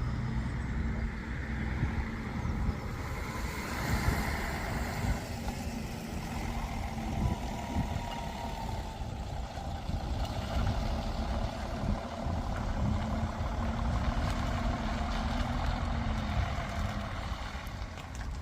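Bus engines running with road traffic passing, a steady low rumble whose engine note rises and falls as vehicles move off and go by.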